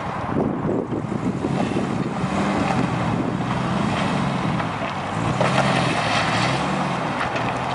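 Suzuki Vitara's engine working at low revs as the 4x4 crawls over a sandy mound, its pitch rising and falling a little, with wind buffeting the microphone.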